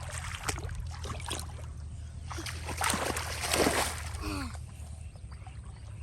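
Hands splashing and sloshing in shallow muddy paddy-field water in irregular bursts, the loudest a little past halfway.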